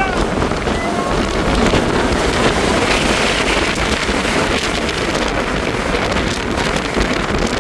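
Loud, steady rushing noise with deep rumbling buffets: wind blowing across the microphone.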